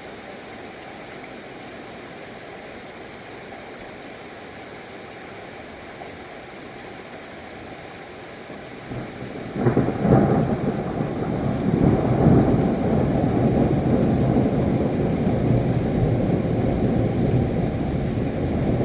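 Steady rain hissing, then about halfway through a loud, low peal of thunder breaks in and rumbles on at length.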